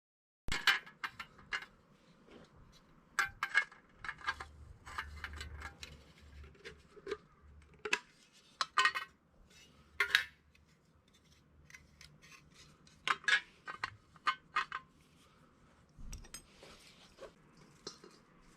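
Irregular metallic clinks and knocks from an empty metal can being handled, some in quick clusters, with quieter scraping and handling noise in between.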